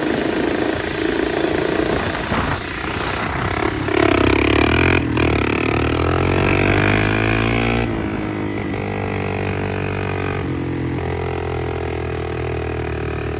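Harvest machinery engine running, with a louder stretch in the middle where the pitch shifts before it settles back to a steady drone.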